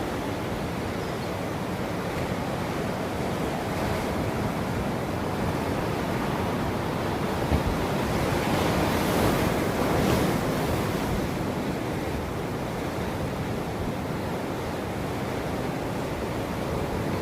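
Ocean surf breaking on a shore: a continuous wash of waves that swells to a louder break around the middle, then settles back.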